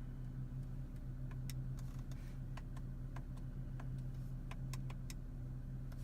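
Irregular light clicks, about a dozen in six seconds, over a steady low hum inside a car's cabin.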